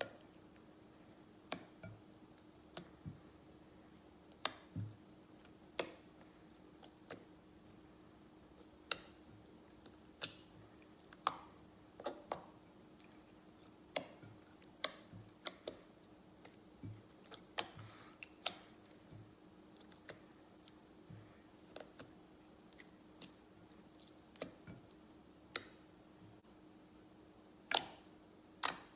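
Homemade slime being squeezed and stretched by hand, giving irregular sharp clicks and pops as air pockets burst, about one or two a second, over a faint steady hum.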